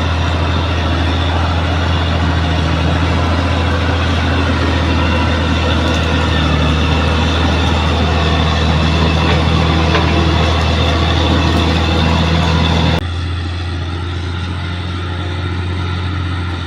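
Diesel engine of a heavy earthmoving machine running steadily under work. About thirteen seconds in it cuts abruptly to a quieter, duller engine note.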